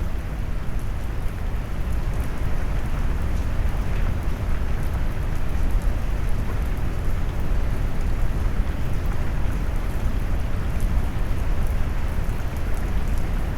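Brown noise mixed with heavy rain: a steady, even rush weighted toward deep, low pitches, with faint scattered drop ticks on top.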